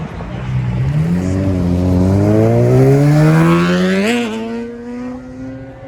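Car engine accelerating hard, its pitch rising steadily for about three seconds, then a brief hitch about four seconds in before it holds at a higher steady pitch.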